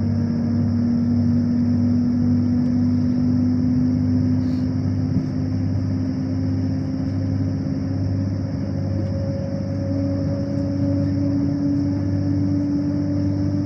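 Steady vehicle travel noise heard from inside, a constant low rumble and hiss, with a whine that climbs slowly in pitch as the vehicle gathers speed.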